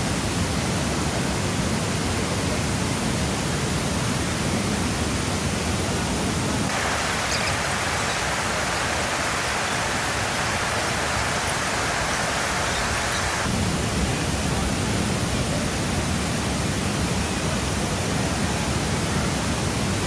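Waterfall, falling water making a loud, steady rush. For several seconds in the middle the sound turns brighter and hissier, with less low rumble.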